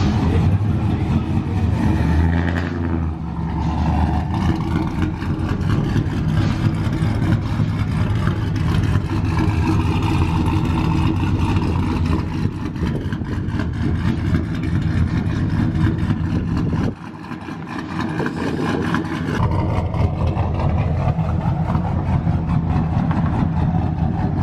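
A vehicle engine running steadily, its low pitch holding even, with a brief dip in level about 17 seconds in.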